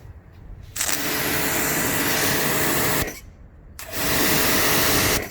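Ryobi 2400 W electric pressure washer spraying through a short gun in two bursts, about two seconds and then a second and a half, as the trigger is squeezed and released; a steady hum runs under the hiss of the water jet.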